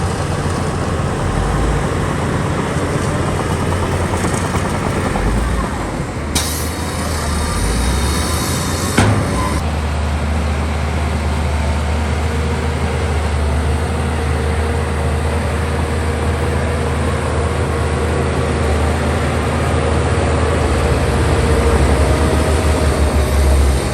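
Heavy diesel earthmoving machinery running steadily under load with a deep engine drone. A hiss comes in about six seconds in and lasts roughly three seconds, and a single sharp knock sounds about nine seconds in.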